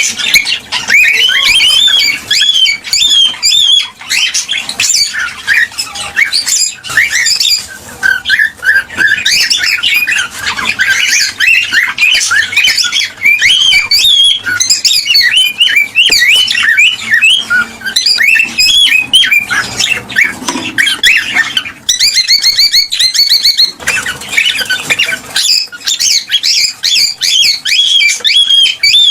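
Cockatiels calling and chattering nonstop: a dense run of short whistled chirps that slide up and down. Partway through comes a brief burst of fast repeated high notes.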